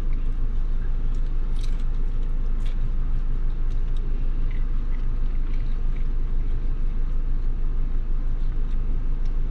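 Steady low rumble of an idling vehicle engine, with faint light clicks over it.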